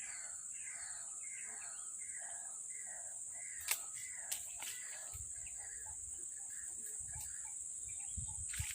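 A bird calling in a run of repeated falling notes, about two a second, that fades out near the end, over a steady high insect drone. Two sharp clicks sound in the middle.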